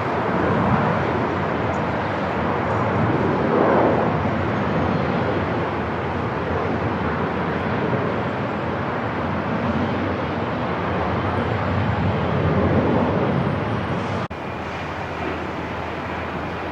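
Airport ambience: a steady rumbling wash of noise with a low hum and mild swells. About fourteen seconds in it drops abruptly to a slightly lower level.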